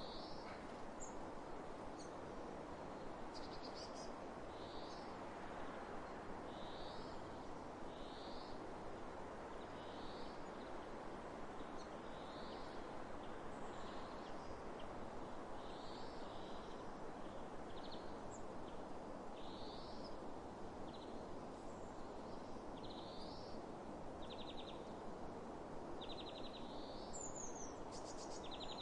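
Steady wind noise over open fields, with a bird repeating a short rising call every second or two and a few buzzy trilled notes near the end.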